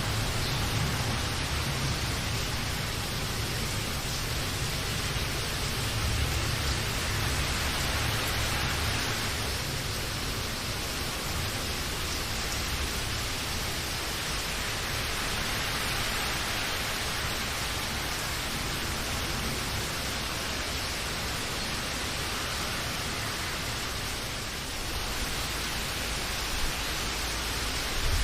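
Steady rain falling, an even hiss, with a low rumble under it that fades out about nine seconds in.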